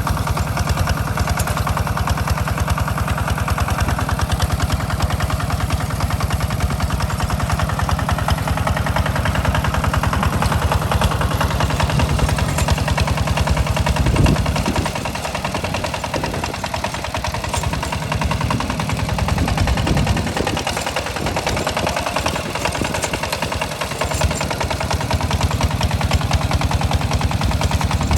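Single-cylinder diesel engine of a Hinota walk-behind tractor running steadily with a rapid, sharp exhaust chug while plowing a rice field. The deep part of the sound drops away for several seconds in the middle, then comes back.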